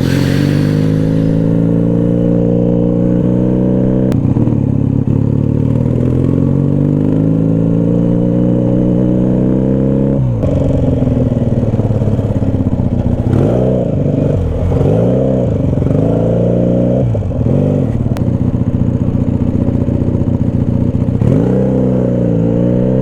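Motorcycle engine under way, heard from the rider's seat: it pulls up steadily in pitch, drops suddenly at a gear change about four seconds in and again about ten seconds in, then the throttle is rolled off and on several times before it settles to a steady run.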